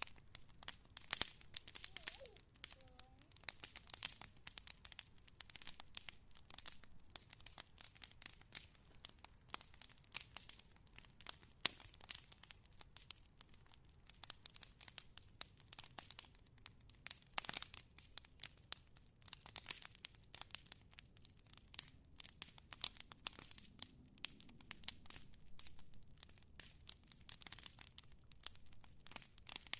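Wood fire crackling, with many irregular sharp pops and snaps.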